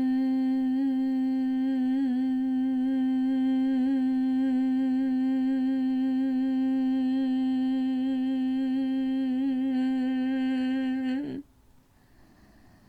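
A single human voice chanting the meditation sound "sun" as one long hum held on a steady pitch, with slight wavers, ending abruptly about eleven seconds in.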